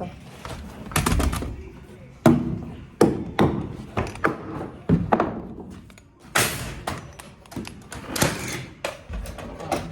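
Irregular heavy knocks on wooden framing lumber, about eight or nine blows, as a 2x6 board is knocked into place and nailed. A short hiss comes about six and a half seconds in.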